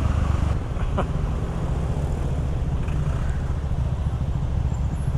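Small Chinese single-cylinder motorcycle engine running steadily at low revs amid city traffic noise, with a short sharp sound about a second in.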